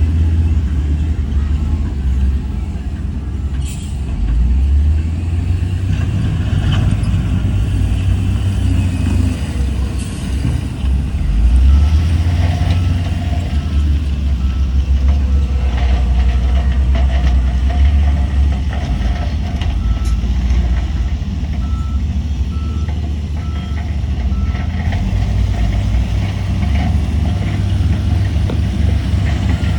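Heavy diesel earthmoving machinery running with a deep, shifting rumble as the engines load and ease off. From just before the halfway point until a few seconds from the end, a reversing alarm beeps about once a second.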